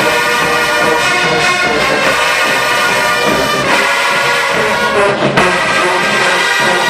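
An HBCU show-style marching band's brass section playing loud, full chords, with an upward glide in the horns a little past the middle.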